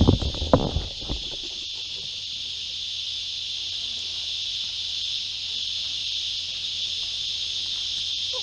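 Steady high-pitched chorus of insects buzzing without a break, with a few knocks and thumps in the first second.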